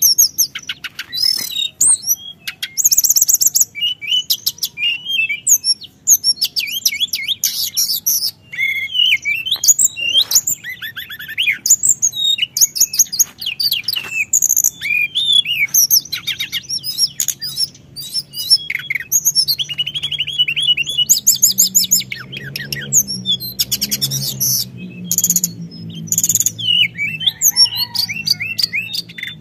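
A teledekan gunung songbird singing a long unbroken run of rapid chirps, quick trills and up-and-down whistled glides, changing phrase every second or so.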